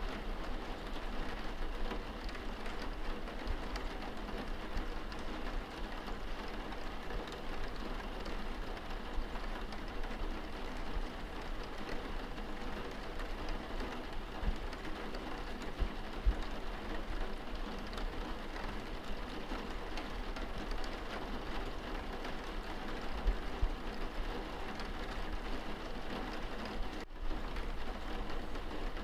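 Steady rain falling on a window glass heard from indoors, a continuous patter with faint scattered drop ticks over a low rumble.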